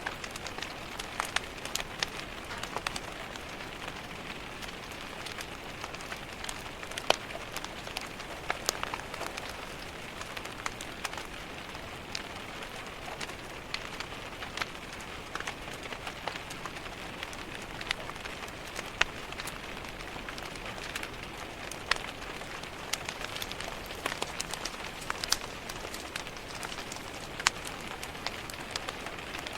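Steady rain pattering on window glass, with sharp crackles and pops from a wood fire in a fireplace scattered irregularly through it.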